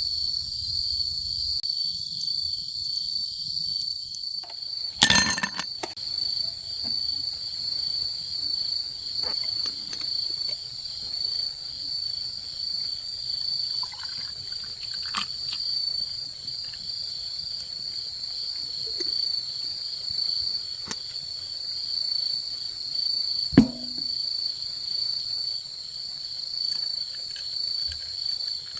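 Crickets trilling steadily in a high, pulsing tone, over faint scattered crackles of a wood campfire. A brief rustling burst comes about five seconds in, and one sharp crack later on is the loudest sound.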